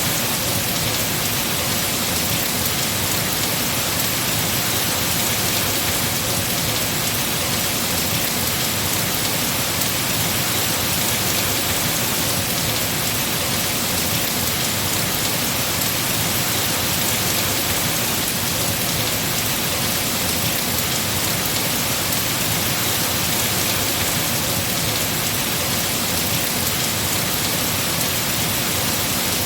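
Heavy rain falling steadily on tree foliage, a dense, even hiss of drops with no breaks.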